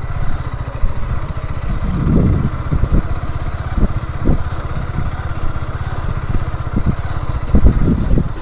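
Motorcycle engine running steadily at low speed during a ride, with several brief low thumps scattered through it.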